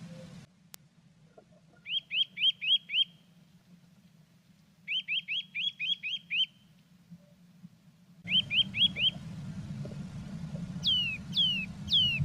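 A small songbird singing: three phrases of quick repeated rising notes, then three slower falling notes near the end. A low background hum drops away about half a second in and comes back about eight seconds in.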